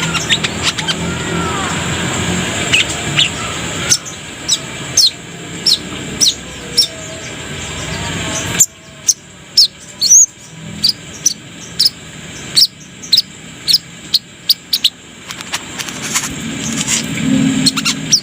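Brown-throated sunbird (kolibri kelapa) giving a run of short, sharp, high chirps, many sliding downward, about one or two a second, over a steady background hum that drops away abruptly partway through.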